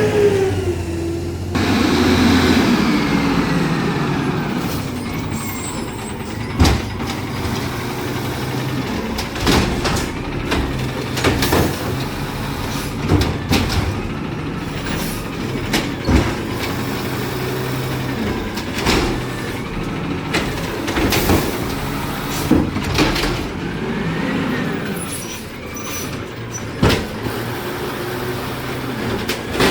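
Garbage truck at work: its engine running steadily, with about a dozen sharp bangs and clunks spread through from its loading gear and cans.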